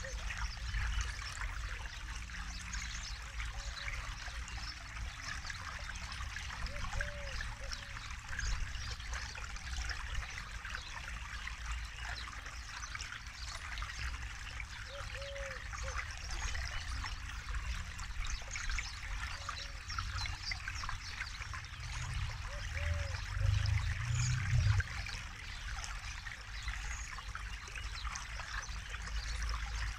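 Forest river flowing over stones: a steady babbling trickle with a low rumble underneath. The rumble swells briefly a little over two-thirds of the way through.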